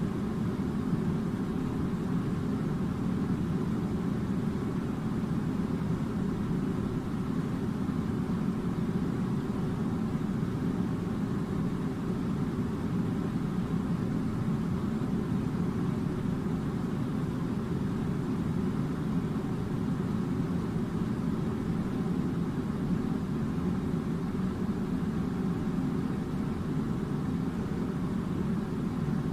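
Air conditioner running: a steady, even low rush of blowing air that does not change.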